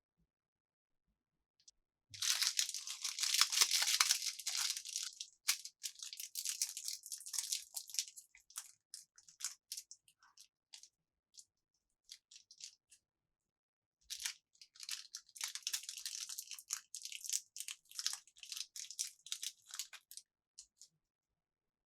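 Plastic candy packaging crinkling and being torn open by hand. The sound comes in two spells of dense crackling, the first starting about two seconds in and the second starting about fourteen seconds in, with scattered crackles between them.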